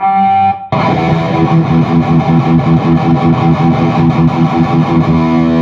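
Distorted electric guitar through a Peavey 6505+ combo amp with a Zoom G1X Four multi-effects pedal: a chord struck and cut short, then a fast riff of quickly repeated notes, ending on a held chord near the end. The pedal patch's distortion is one the player says "sucks".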